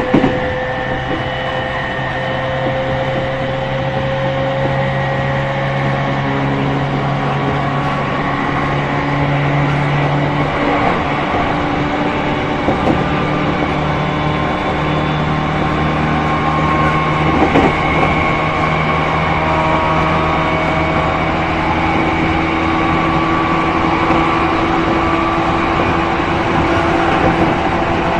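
JR East E231 series 1000-subseries EMU's MT73 traction motors groaning under way over the noise of wheels on rail. Several tones rise slowly in pitch. This unit is a notably loud-groaning MT73, most marked at mid speeds.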